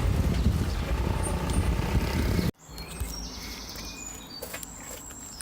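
A loud, steady low rumbling noise cuts off abruptly about two and a half seconds in. Quieter outdoor ambience follows, with birds chirping.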